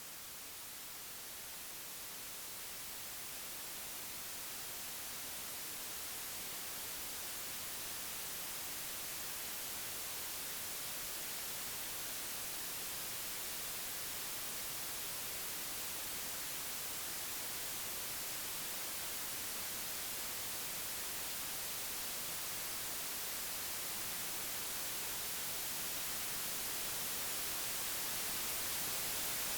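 Computer-generated white noise: an even, steady hiss across the whole range, slowly growing louder.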